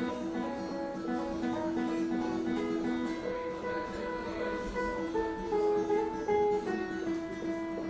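Acoustic guitar playing an instrumental passage: ringing chord tones, with a single-note melody stepping down in pitch about halfway through.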